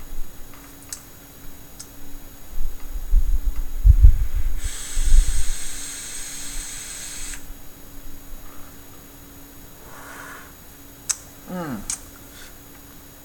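A person exhaling a lungful of e-cigarette vapor: breath buffets the microphone in low thumps, then a steady hiss lasts about three seconds. Near the end come a few light clicks and a short falling voice sound, over the steady hum of a room fan.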